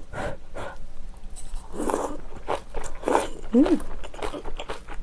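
Close-miked chewing of a mouthful of kimchi and rice: wet smacking and crunchy mouth noises, with a short hummed "mm" that rises and falls about three and a half seconds in.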